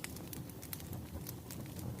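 Bonfire crackling: irregular sharp pops and snaps over a low steady rumble of burning wood.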